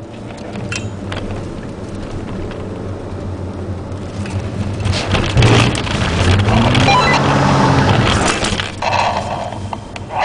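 Ford Puma 1.7 VCT inline-four engine and wet-road tyre noise heard from inside the cabin. The car grows louder about halfway through, and the engine note rises as it accelerates before settling back near the end.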